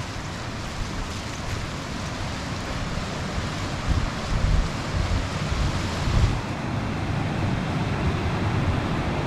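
Steady rush of a waterfall's falling water, growing gradually louder, with low gusts of wind on the microphone about four and six seconds in.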